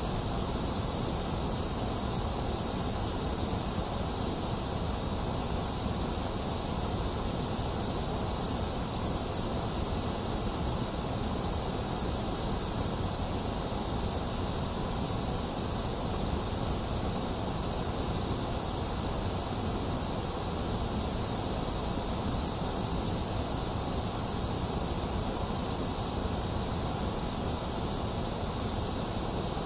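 Box fan running steadily, mixed with steady rain: an even, unchanging rush with a bright hiss on top.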